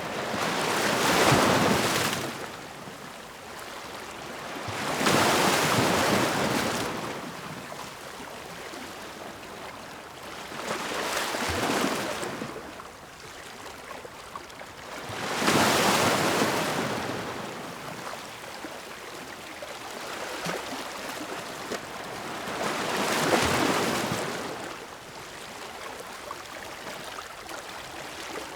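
Ocean waves breaking and washing in, five surges in turn, each swelling and fading over a couple of seconds, above a steady hiss of surf between them.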